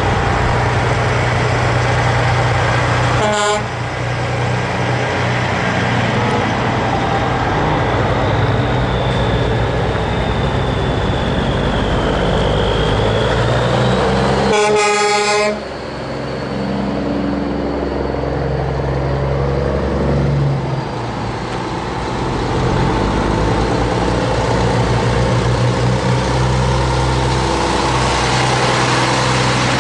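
Heavy truck engines running at low speed. A truck horn sounds twice: a short toot about three seconds in and a blast of about a second near the middle.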